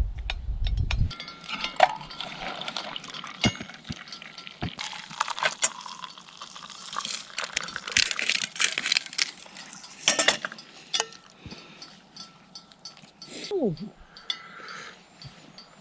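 Cutlery and camp dishes clinking in a run of short, sharp clicks, with some stirring and liquid sounds.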